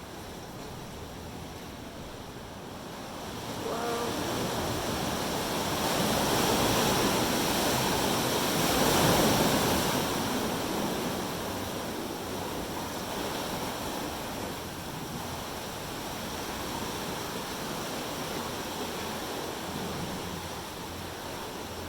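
Ocean waves surging into a rocky sea cave: a swelling wash of surf that builds about four seconds in, is loudest about nine seconds in, then eases to a steady lower rush.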